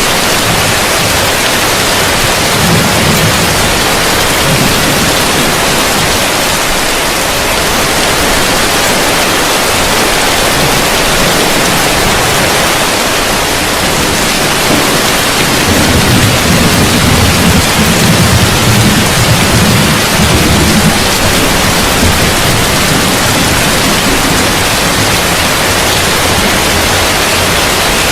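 Heavy rain falling on a roof: a dense, steady hiss. A low rumble swells in a little past halfway and lasts about five seconds.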